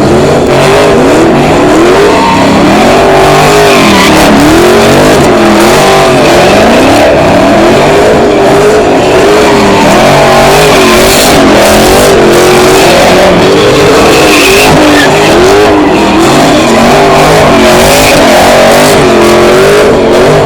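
Very loud car engine revving up and down over and over, about once a second, with tyres squealing as the car spins its wheels in a burnout.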